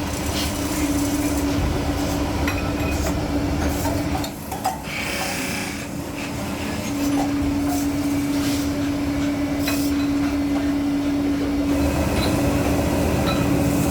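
Workshop machinery running with a steady hum and dense mechanical noise, with scattered sharp metallic clicks. The hum drops out for about two seconds near the middle and then returns.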